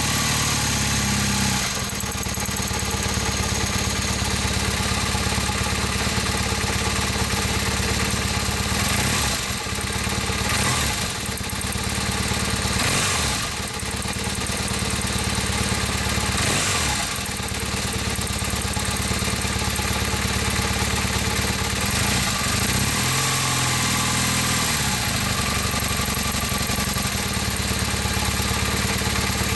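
Honda CM450C's air-cooled parallel-twin engine idling while still fairly cold, carrying an odd noise from the cylinder head. The engine speed shifts briefly a few times.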